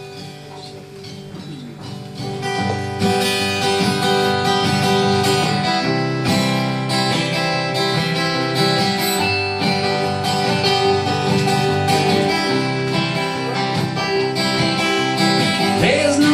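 Live acoustic guitar playing a song's instrumental intro, starting softly and filling out to full strumming about three seconds in.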